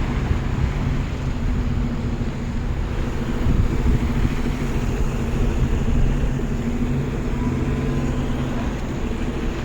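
A truck's engine running steadily with a low hum, heard over a dense rumble of street noise.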